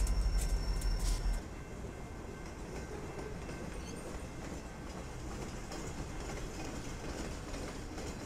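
A freight train of flatcars loaded with rail rolls past with a loud low rumble and clacking wheels. About a second in, the sound cuts to the quieter, steady rumble and rattle of a work train carrying yellow track-maintenance machines rolling along the rails.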